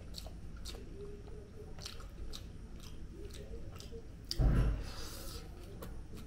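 A person chewing a mouthful of chicken biryani, with a stream of short wet mouth clicks and smacks. About four and a half seconds in comes a louder thump followed by a brief rush of noise.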